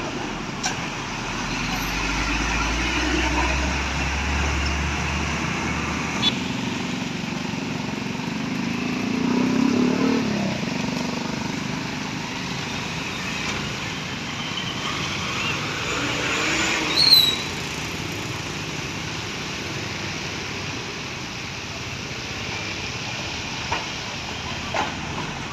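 Road traffic: motor vehicles passing by, with a low engine hum for the first several seconds and a brief high squeal about 17 seconds in.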